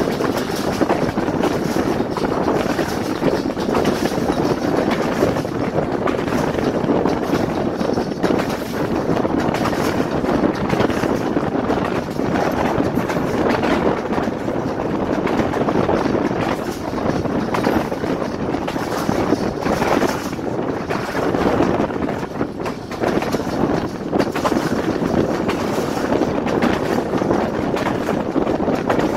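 Passenger train coach running along the track, heard from the coach window: a steady noise of wheels on rails, with wind on the microphone.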